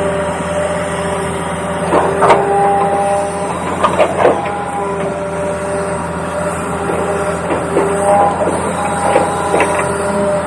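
A toy RC excavator's small electric motors whining. The whine holds steady pitches that switch every second or so as different motors run, over a steady low hum, with a few sharp clicks and knocks.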